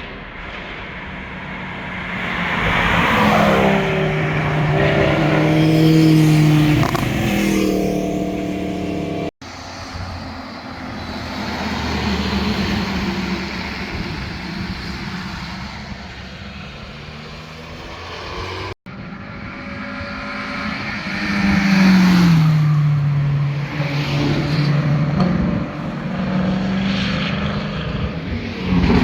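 Performance cars passing one after another under hard acceleration, engines revving and exhausts loud. The pitch drops as each car goes by, with gear changes. Three separate pass-bys.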